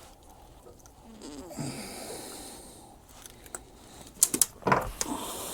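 A freshly caught scad being handled aboard a boat: faint low breathy sounds early, then a quick cluster of sharp knocks and clicks about four seconds in.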